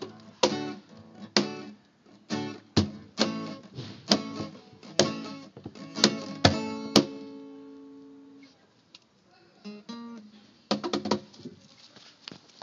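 Acoustic guitar strumming chords in a steady rhythm: the closing bars of the song. The last chord rings out and fades about seven seconds in, followed by a few faint scattered notes and taps on the guitar.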